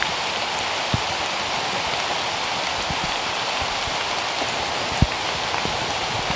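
Steady rain falling through rainforest, with a few heavier drops landing close by as single dull thuds, about a second in and again near five seconds.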